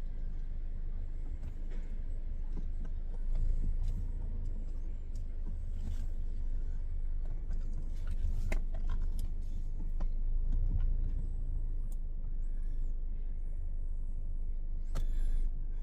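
Alfa Romeo car engine running with a steady low rumble, with a few light clicks and knocks.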